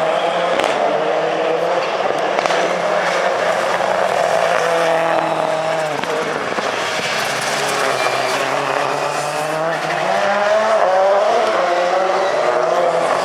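Several rallycross Supercars racing together, their engines revving up and down at different pitches as they accelerate, shift and brake.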